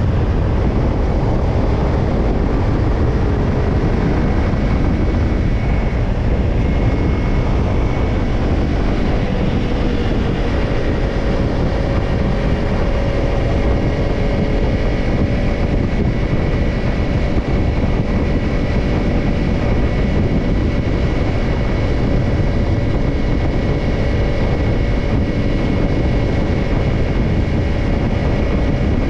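Kawasaki Ninja 250's parallel-twin engine running steadily at an even cruising pace through a BEET JAPAN NASSERT Evolution Type II titanium slip-on muffler, with wind rushing over the microphone.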